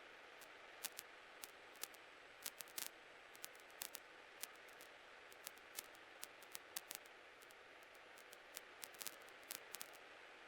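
Faint steady hiss on a helicopter's cockpit intercom audio, broken by irregular sharp clicks of static crackle, several a second at times.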